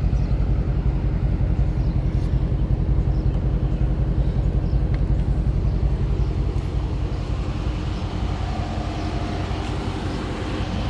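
Dodge Daytona 392's 6.4-litre Hemi V8 idling, a steady low pulsing rumble with a faint constant hum above it.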